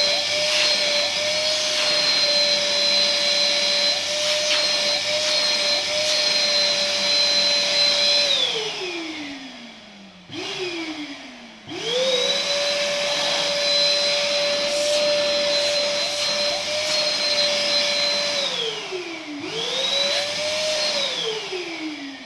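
Ribimex Cenetop 1200 W electric ash vacuum running with a steady whine. It is switched off and winds down with a falling pitch, gives a brief burst, then is restarted twice more, each run ending in another wind-down.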